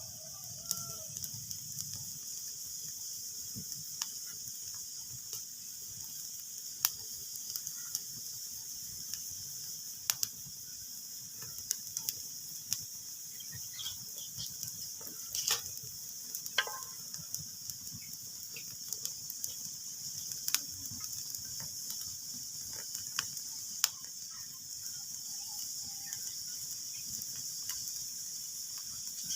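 Wood fire in a fireplace crackling: a steady hiss with scattered small pops and a few louder, sharp snaps.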